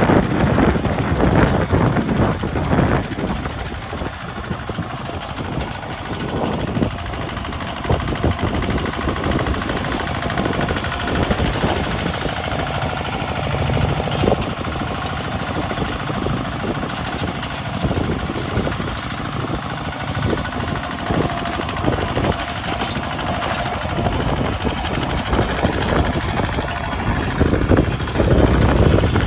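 Kubota RT single-cylinder diesel engine of a walking tractor running under load while working a field, with a fast, steady knocking beat. It is louder near the start and again near the end.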